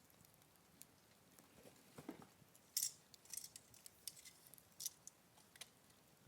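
Wood fire crackling: sparse, irregular pops and snaps, the sharpest about three seconds in and just before five seconds, with a softer lower rustle about two seconds in.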